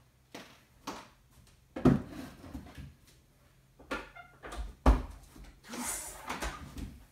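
Wooden chairs and things on a wooden table being handled and shifted: a series of separate knocks and clatters, the loudest about two seconds in and again about five seconds in, with a short rustle around six seconds in.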